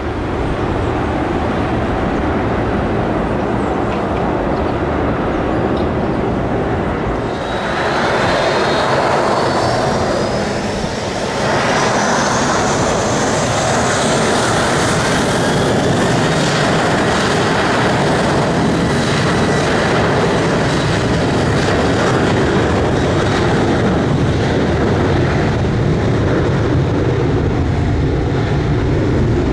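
Aircraft engines running at high power: a loud, steady rumble, with a whine that comes in about seven seconds in and rises in pitch as the engines spool up.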